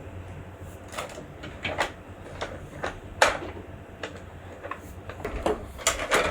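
Irregular clicks and knocks of hard objects being handled, over a low steady hum. The sharpest knock comes about three seconds in.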